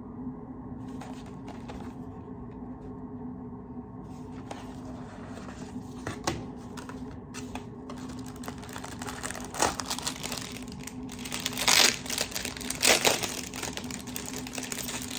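Gift packaging being unwrapped by hand: paper and plastic wrapping crinkling and rustling, growing busier and louder toward the end, over a steady low hum.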